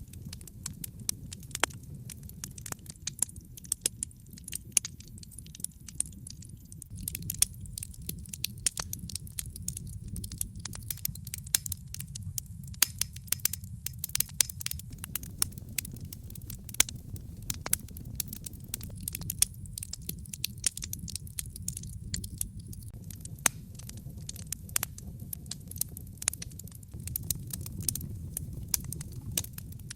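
Wood fire in a fireplace crackling and popping: a steady low rumble of flames with many sharp, irregular pops and snaps.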